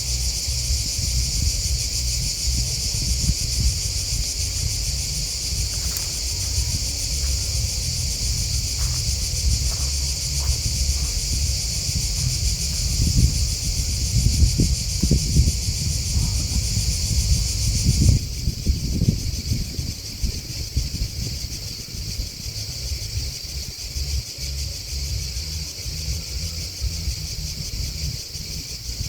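Grasshoppers and crickets chirping in a steady, high-pitched chorus, over a low rumble. The chorus suddenly becomes quieter about eighteen seconds in.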